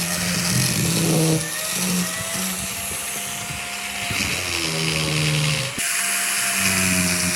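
A power tool running with a steady high whine and a noisy rasp over background music, with a sudden break a little under six seconds in.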